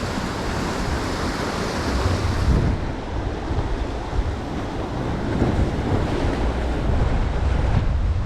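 Wind buffeting the microphone with a low, uneven rumble, over the steady wash of waves.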